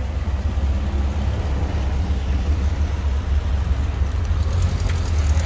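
Air-cooled Volkswagen flat-four engines going by: a Beetle convertible drives past, then a VW bus approaches, a low steady rumble that grows slightly louder toward the end.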